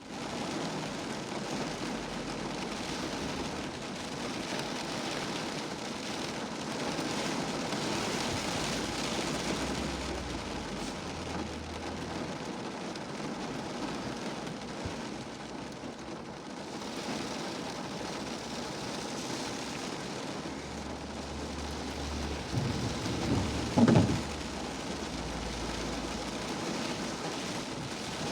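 Steady rain falling, with a louder low rumble of thunder swelling near the end.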